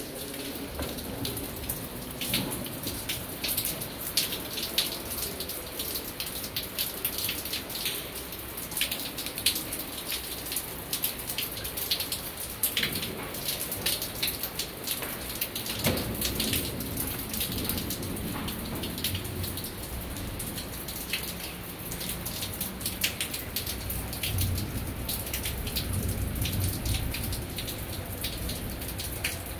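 Rain falling, with many close drops splashing and dripping onto wet stone.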